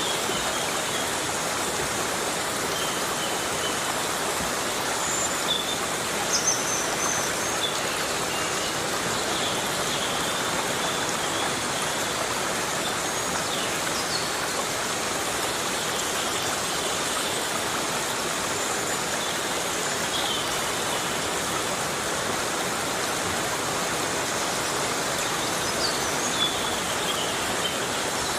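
Heavy rain falling steadily in a forest, an even hiss, with a few faint, brief high chirps scattered through it.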